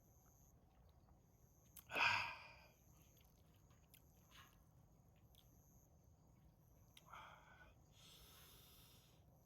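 A person's loud breathy exhale or 'ah' about two seconds in, a shorter one about seven seconds in, and a hissing breath near the end, while eating and drinking. Faint insects chirp at a steady high pitch, on and off.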